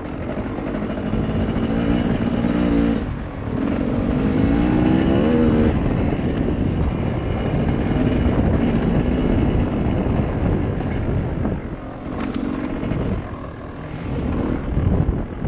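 Dirt bike engine running under way, its pitch climbing twice and dropping off sharply about three and six seconds in, then running more steadily.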